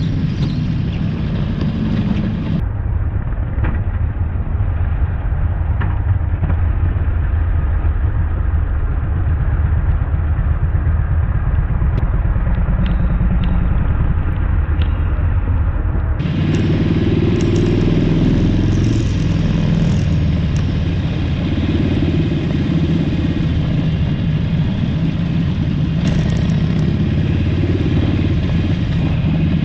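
Motorcycle engine running steadily, its low rumble continuous, with an abrupt change in its sound about halfway through.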